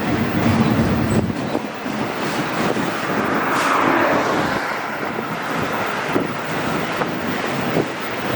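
Freight train of empty autorack cars rolling past: a steady rumble of wheels on rail with scattered short clanks, and wind buffeting the microphone.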